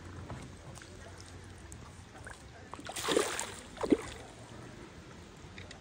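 Two splashes about a second apart: a hooked pike thrashing at the water's surface as it is played on a light float rod.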